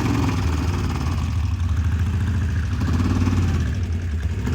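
Racing engine running steadily, loud and unbroken. It has just been brought back to life after a no-start that was cured by a new fuel pump.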